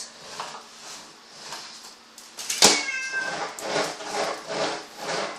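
Domestic cat meowing and crying in fear of a vacuum cleaner. A sharp knock comes about two and a half seconds in, followed by a string of short cries.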